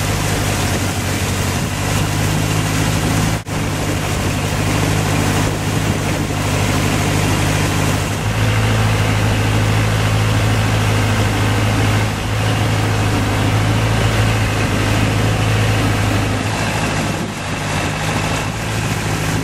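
Long-tail boat engine running steadily under way, a constant low drone over the rush of water and wind, with a momentary break about three and a half seconds in.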